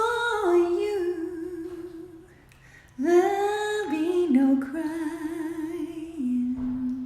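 A woman singing unaccompanied: two phrases of held notes that step up and down, the second longer, with a wavering vibrato partway through.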